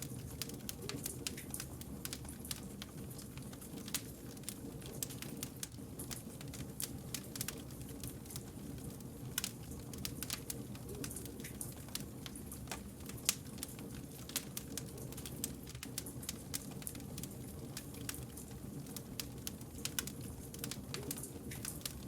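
Wood campfire crackling: many small, sharp pops and snaps at irregular intervals over a steady low rumble.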